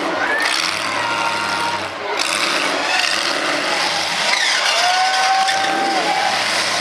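Demolition derby cars' engines running and revving as the cars shove against each other, over a steady din of crowd voices.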